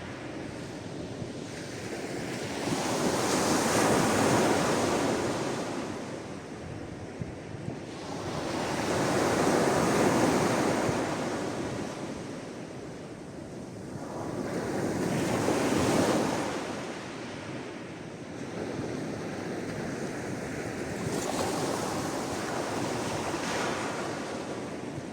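Sea waves surging in and washing back, each swell rising and falling over a few seconds, about every six seconds: three fuller waves, then a softer one near the end.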